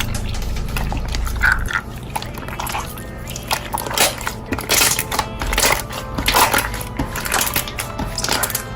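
Slime being squished and pressed by hand, giving dense, irregular wet clicks and crackles over quiet background music.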